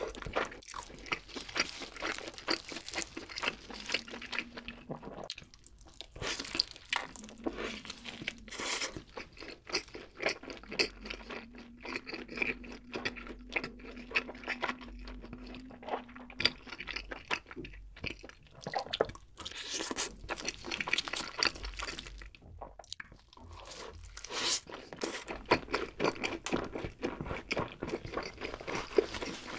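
Close-up chewing and crunching of cheesy pizza with a crisp crust, a steady run of irregular crackles and mouth sounds.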